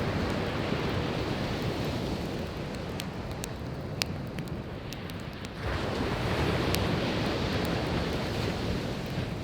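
Sea waves washing onto the shore in slow surges, a new one swelling a little past halfway, with scattered sharp crackles and pops from burning firewood, the loudest about four seconds in.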